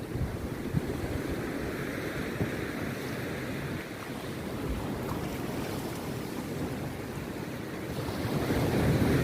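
Rough sea surf breaking and washing onto the beach, a continuous rush that swells louder near the end, with wind buffeting the microphone.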